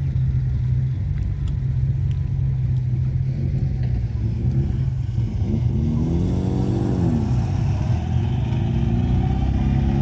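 Car engines in passing traffic: a steady engine hum throughout, one engine revving up and dropping back about six seconds in, and another car's engine growing louder near the end as it approaches.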